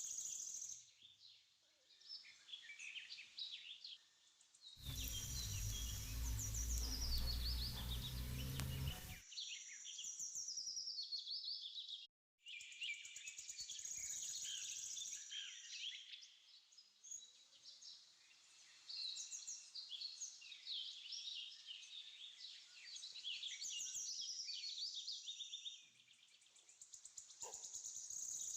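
Birds chirping and singing faintly in repeated short bouts of quick rising and falling notes. About five seconds in, a stretch of steady, even noise lasts about four seconds.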